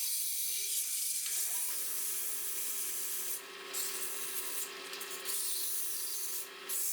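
Turned wooden vise handle spinning on a small wood lathe while it is polished by hand: a steady rubbing hiss, with the lathe motor's hum rising and then holding steady from about two seconds in.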